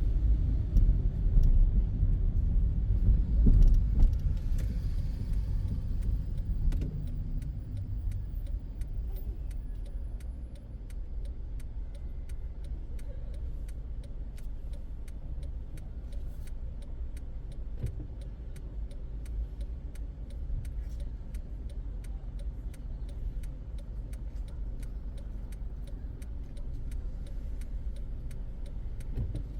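A car driving in city traffic, heard from inside: a low rumble of engine and road noise, louder for the first several seconds, then a quieter, steady hum.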